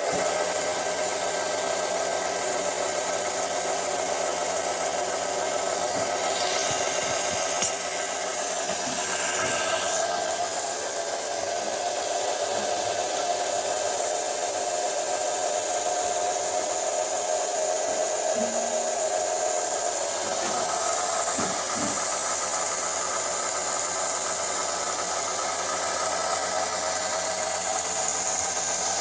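Scheppach BTS700 belt and disc sander switched on and running: a steady motor hum and whir that starts abruptly and holds even, pretty quiet for a sander.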